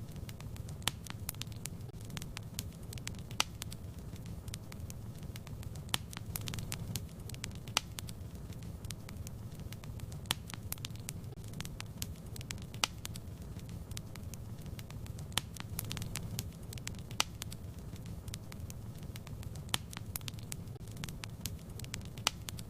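Fire in a fireplace crackling, with irregular sharp pops and snaps over a steady low rumble of flame.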